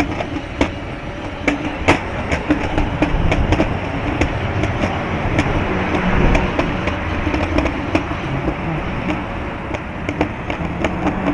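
Strong wind rushing over the microphone, with irregular sharp clicks and rattles throughout.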